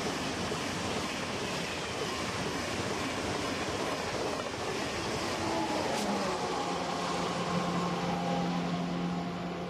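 Eurostar high-speed train running past at speed: a steady rush of wheel and air noise. About halfway through a low hum and a higher whine set in and drop slightly in pitch as the end of the train goes by and draws away, with a single sharp click.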